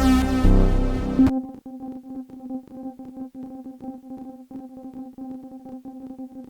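Dreadbox Typhon monophonic analog synthesizer playing factory presets: a loud, bass-heavy patch cuts off suddenly about a second in. A quieter, thin held tone follows, fluttering rapidly.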